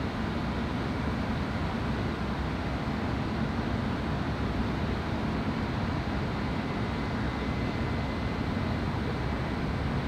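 Steady low rumble of Long Island Rail Road electric trains moving slowly through the rail yard, with no horn or bell.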